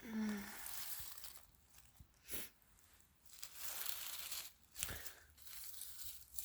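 Footsteps crunching and rustling through dry leaf litter and twigs on the forest floor, in uneven swells with a couple of sharper crunches. A brief low hum of a voice comes right at the start.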